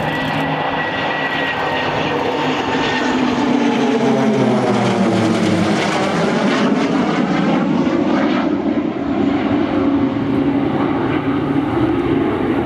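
Military aircraft flying past, loud, its engine sound swelling and then sweeping down in pitch a few seconds in as it passes, leaving a steady rumble as it moves away.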